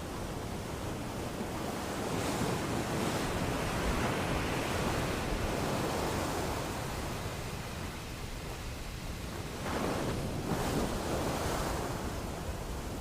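Sea waves breaking and washing on a beach, rising in two swells, one about two seconds in and another near the ten-second mark.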